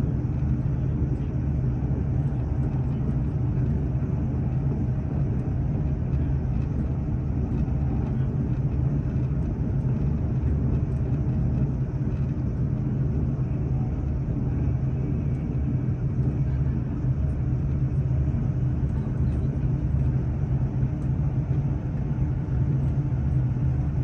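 Steady low rumble of a moving train heard from inside the carriage, running at an even speed.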